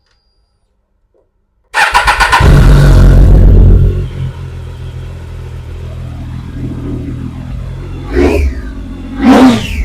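Triumph Daytona 675's inline three-cylinder engine starting up about two seconds in, catching and revving high, then settling to idle, followed by two sharp throttle blips near the end.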